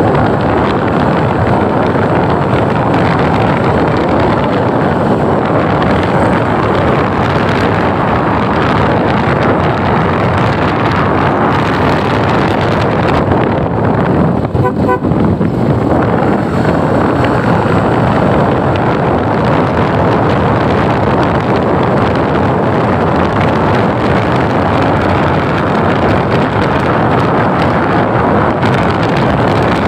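Steady wind rushing over the microphone and road noise from a vehicle moving at speed, with a brief dip about halfway through.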